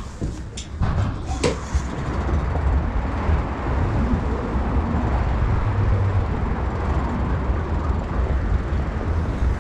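A few sharp clicks in the first second and a half, then steady rushing wind noise on the microphone with a strong low rumble.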